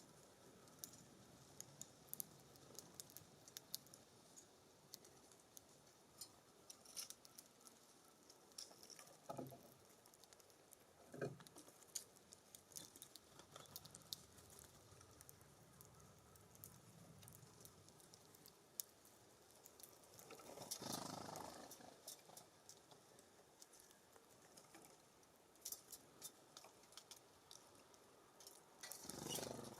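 Faint, irregular clicks and taps of small birds pecking seed and hopping about on a wooden feeder, with two brief rushing swells, one about two-thirds of the way in and one at the end.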